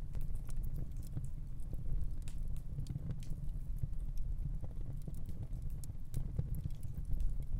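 Gas fireplace flames burning with a steady low rumble, with scattered faint crackles and ticks.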